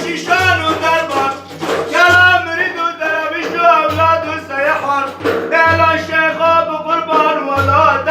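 A man singing religious praise (madih) in long, ornamented melodic lines, over a low bass note that recurs every second and a half or so.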